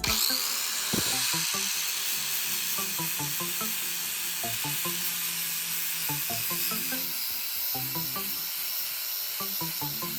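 A handheld power tool starts suddenly and runs steadily with a high, even hiss, working on the material, with soft background music underneath.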